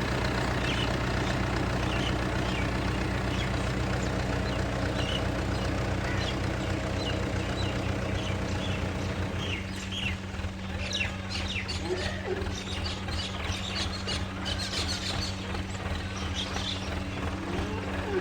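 An engine running steadily at idle, its low hum thinning about halfway through, with birds chirping over it, more busily in the second half.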